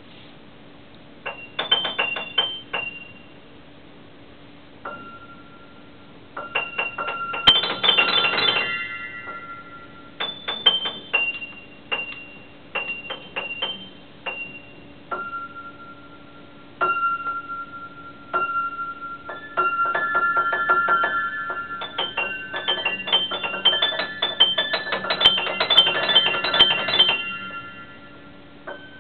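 Solo piano playing short phrases of high notes separated by pauses, the phrases growing denser and faster from about twenty seconds in.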